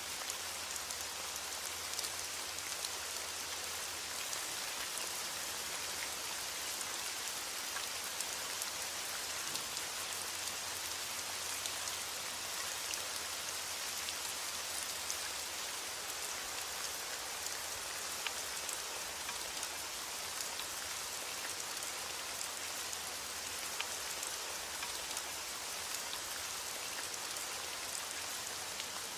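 Heavy rain falling steadily on a window: a continuous even hiss with scattered faint ticks.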